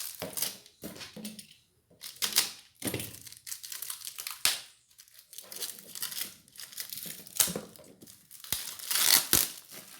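Packaging crinkling and rustling in irregular bursts as ceiling fan blades are unwrapped and handled, with a few sharp knocks near the end.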